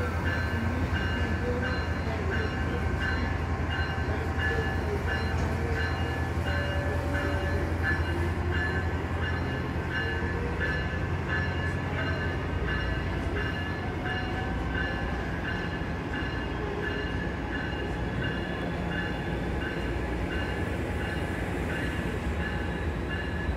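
Passenger train at a station, its engine rumbling low and steady, with a bell ringing evenly about twice a second.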